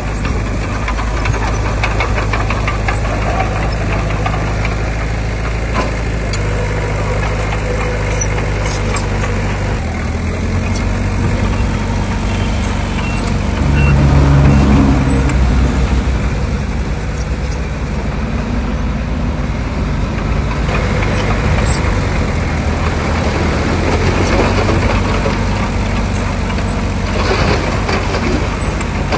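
Heavy diesel engines of earthmoving machinery running continuously as they work soil. The engine note shifts about ten seconds in and swells louder for a couple of seconds a little later, with scattered light clanks.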